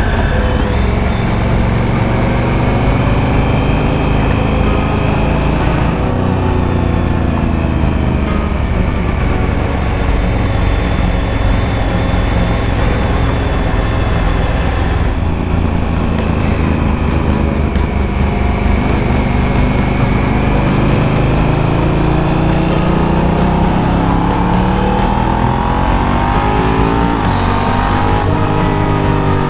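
Honda Africa Twin's parallel-twin motorcycle engine under way, its revs rising and falling, over steady wind and road rush. The sound changes abruptly about six and fifteen seconds in.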